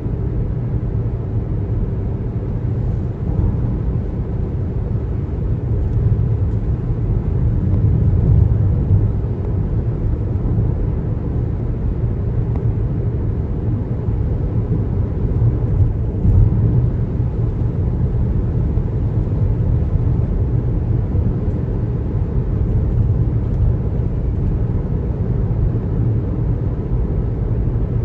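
Steady low road and tyre rumble of a car driving at highway speed, swelling slightly about 8 and 16 seconds in.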